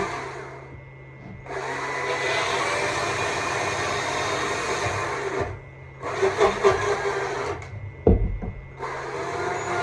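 Stihl MSA 200 C battery chainsaw cutting into wood in bursts, the chain dropping off briefly three times as the trigger is let go and squeezed again. A sharp knock just after eight seconds.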